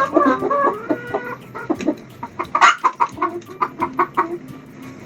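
Hen clucking: a quick run of short calls with a few longer drawn-out ones, stopping a little over four seconds in.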